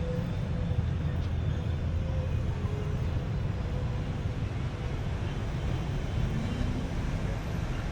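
Steady city-street traffic noise: a continuous low rumble of passing vehicles with an even hiss above it.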